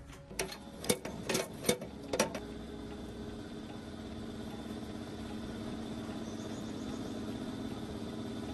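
Several sharp metal knocks in the first two seconds or so, then a tractor engine running steadily, growing a little louder toward the end.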